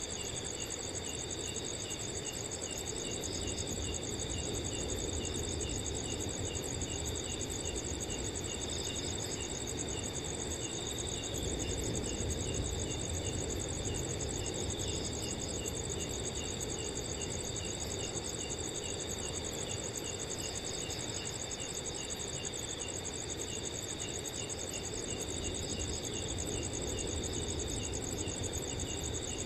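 Several crickets chirping and trilling together at different pitches, one in regular repeated chirps, over a soft, even rush of wind.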